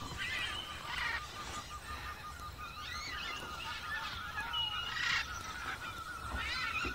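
Wild birds chirping, several short chirps and warbled phrases over a steady, fast-pulsing trill.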